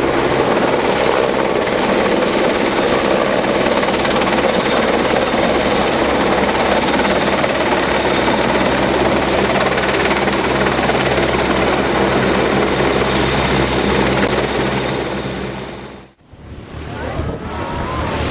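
A low-flying aircraft runs loudly and steadily with a deep engine drone. The sound cuts out suddenly near the end and then builds back up.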